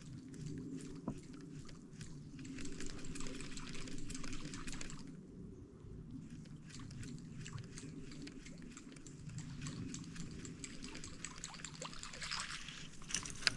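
Water trickling and lapping around a kayak, with many light clicks and handling knocks; the hiss and clicks ease off briefly about five seconds in.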